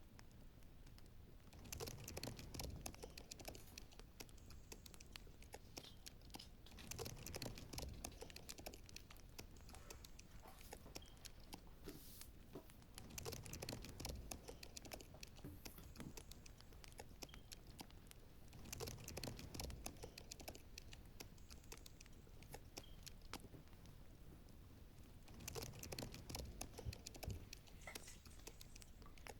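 Wood fire crackling, a stream of small sharp snaps that swells into louder flurries about every five or six seconds.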